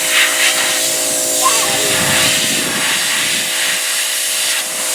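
Pressure washer running: a steady hiss of water spray over a constant motor whine, spraying down old beehive boxes.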